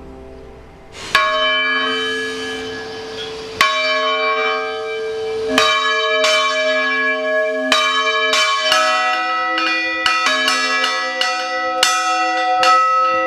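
Church bells ringing: single strokes about two seconds apart, quickening in the second half into several bells striking over one another, each stroke ringing on.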